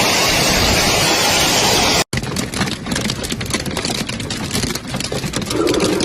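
Hail coming down hard: first a dense, even roar. After a sudden cut, a rapid clatter of many hailstones striking hard surfaces.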